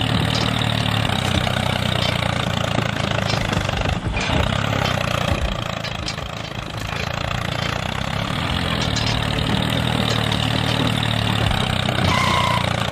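A small engine running steadily at idle, dipping slightly in level about six seconds in.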